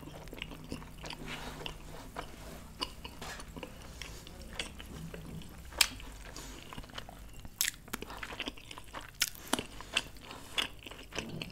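Close-miked chewing of a mouthful of food: soft wet mouth sounds with scattered sharp clicks and smacks, a few louder ones in the second half.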